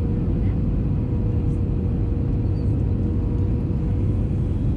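Airbus A319 cabin noise heard from a window seat: a steady, deep rumble of engines and airflow with a constant thin hum running through it.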